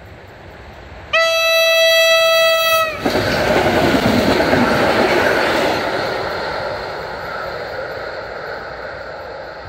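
PKP EN57 electric multiple unit sounding one long horn blast about a second in, its pitch dipping slightly as it cuts off. The train then passes close by with the noise of its wheels on the rails, which swells and then slowly fades as it runs away.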